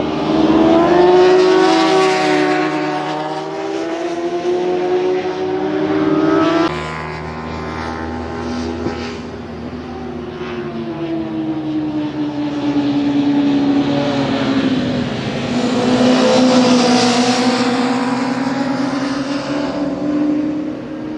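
Superbike racing motorcycles running at high revs on track, their engine note rising and falling in pitch as they pass. The loudest passes come about two seconds in and again around sixteen seconds in, with an abrupt change in the sound at about seven seconds.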